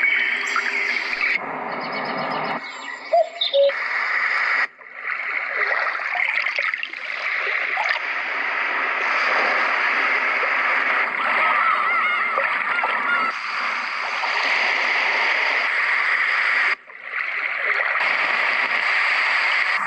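Seynli white noise machine playing its built-in sounds through its speaker, switching abruptly from one sound to the next every few seconds. Most of the sounds are rushing, splashing water-like noise.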